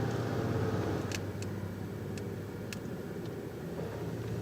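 Car engine idling steadily, with a few faint light clicks.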